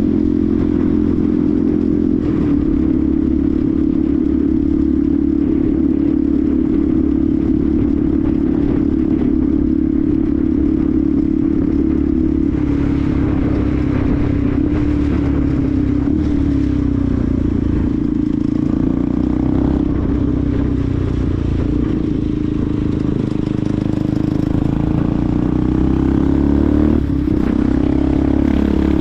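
Benelli TNT 125's single-cylinder four-stroke engine running under way, a steady note that sags and climbs again a couple of times in the second half as the throttle changes, over a rushing noise.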